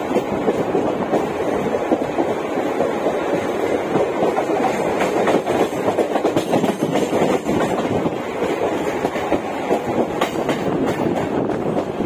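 Mumbai suburban electric local train running at speed, heard on board: a steady rumble and rattle of wheels on the track, with a few sharper clacks over the rails.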